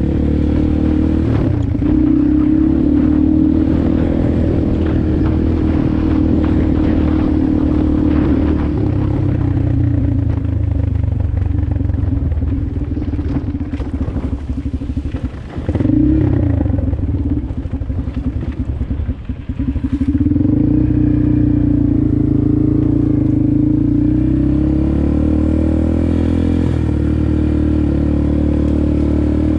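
Motorcycle engine running under way at fairly steady revs. About halfway through the throttle is eased off and the note turns unsteady and dips for several seconds, then it picks back up about twenty seconds in and runs steady again.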